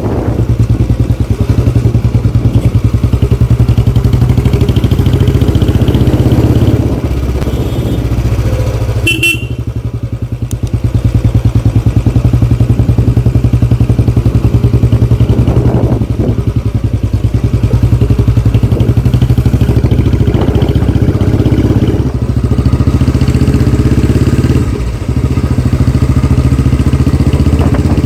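Royal Enfield Classic 350's single-cylinder engine running through an aftermarket Barrel Exhaust Canon silencer: a loud, steady rapid thump of exhaust pulses that eases off briefly twice.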